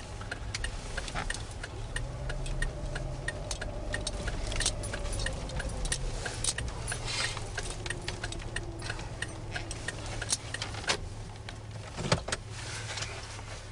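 Car running, heard from inside the cabin, with a steady low hum and a regular clicking throughout.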